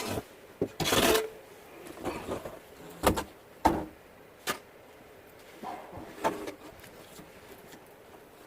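Snow shovel scraping through packed snow and knocking, in a run of short scrapes with several sharp knocks; the longest scrape comes about a second in.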